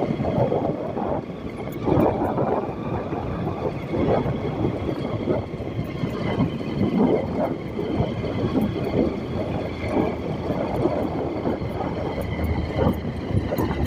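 Steady, uneven rumble of a moving vehicle.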